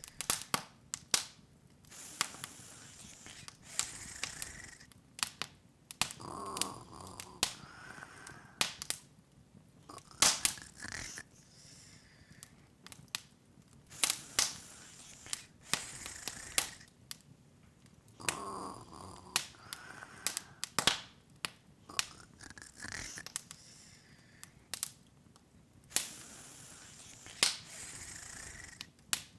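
Open fire crackling: sharp, irregular pops and snaps, several a second, over a soft hiss of flame.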